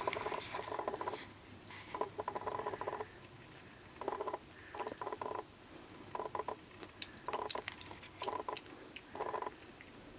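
Kitten suckling milk from a feeding bottle: about eight short bursts of rapid wet clicking and sucking, each under a second, with brief pauses between them.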